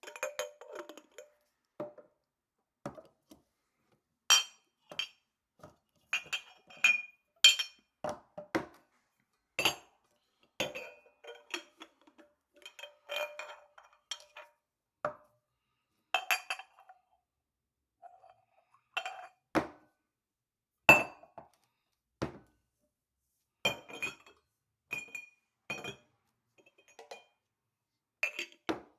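Glass bottles clinking against one another in irregular single knocks and short quick runs, each knock ringing briefly with a bright glassy tone; one of the loudest comes about two-thirds of the way through.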